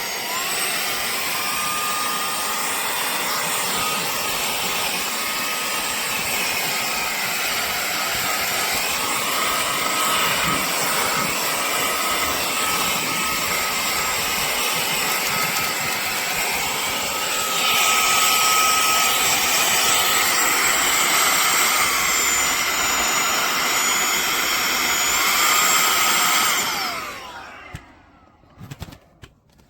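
Cordless handheld vacuum cleaner/blower running with a steady high motor whine over rushing air. Its pitch steps up just after the start, it gets louder and hissier a little past halfway, and near the end it is switched off and winds down with a falling whine, followed by a few clicks.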